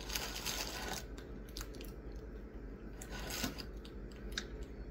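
Mouth sounds of people chewing pieces of soft maple fudge, with scattered small clicks and smacks, after a brief rustle of the packaging in the first second.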